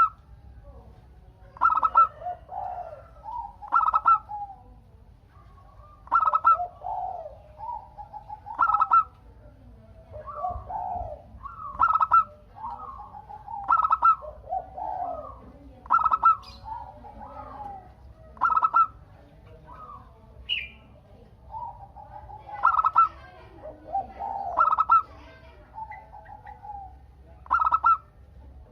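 Zebra doves (perkutut, Geopelia striata) cooing. A loud call repeats about every two seconds, with softer cooing phrases overlapping in between as the birds answer each other. There is one brief higher chirp about two-thirds of the way through.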